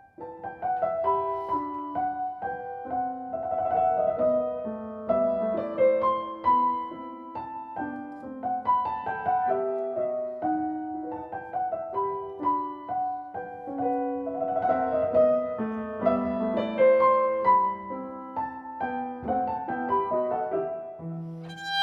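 Solo piano playing a calm, flowing melody, a steady stream of single notes over a gentle accompaniment.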